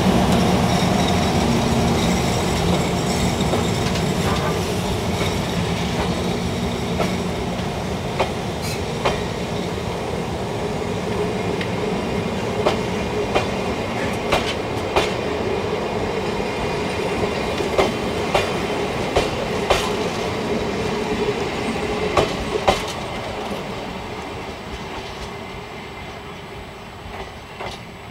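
Electric locomotive and a rake of old passenger coaches passing, with wheels clacking sharply over rail joints. It is loudest as the locomotive goes by at the start and fades steadily as the train moves away.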